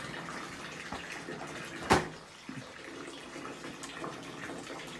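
Water running into a bathtub in a small tiled room, a steady rush, with one sharp knock about two seconds in.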